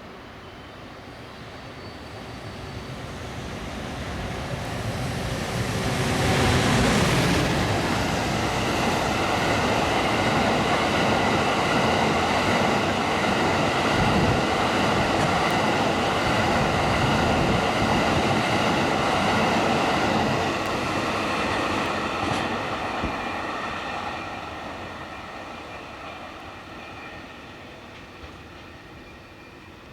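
Freight train passing at about 75 km/h: an EF510 electric locomotive hauling sixteen Hoki hopper wagons. The sound swells to its loudest about six to seven seconds in, holds as a steady rumble of wagon wheels with high ringing tones over it, then fades away over the last several seconds.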